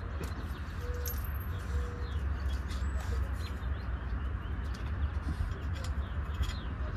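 Faint bird calls, a few short steady notes in the first two seconds, over a steady low rumble.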